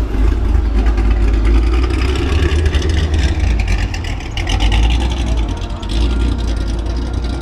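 Chevrolet Camaro SS V8 engine running, a steady deep low sound that stays loud throughout.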